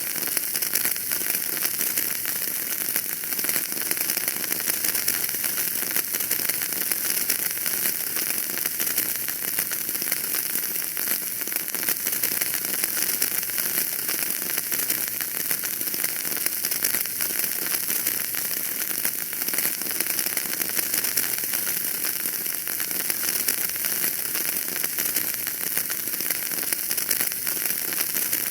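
Wood fire in a fireplace crackling steadily: a dense run of small pops and snaps over an even hiss.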